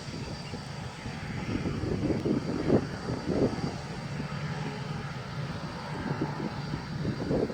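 Boeing 787 jet engines (Rolls-Royce Trent 1000) running steadily with a broad whooshing noise, under irregular low rumbles that swell and fade.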